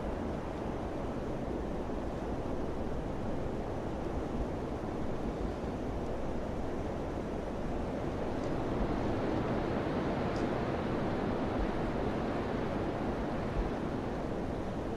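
Wind blowing as a steady rush that swells a little about halfway through.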